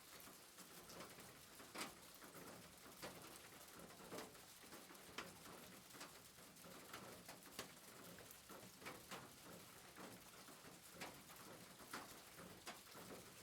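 Faint soft rain: a steady hiss of rainfall with scattered sharp drip ticks, about one or two a second.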